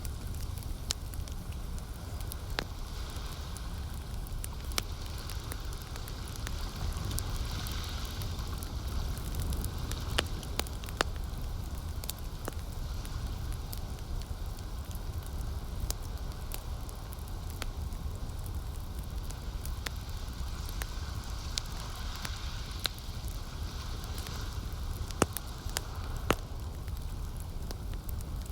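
Campfire burning, the wood crackling with irregular sharp pops over a steady low rumble; the loudest pops come near the end.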